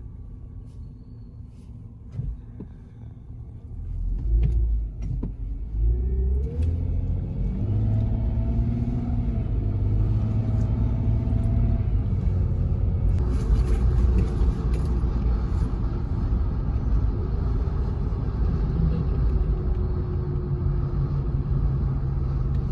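Car engine and road rumble heard from inside the cabin. It is quieter for the first few seconds, then the car speeds up, with the engine note rising about six to eight seconds in before it settles into a steady cruise.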